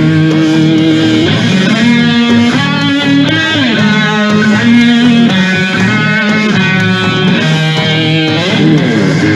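Hard rock music: electric guitar playing held and sliding notes over bass guitar.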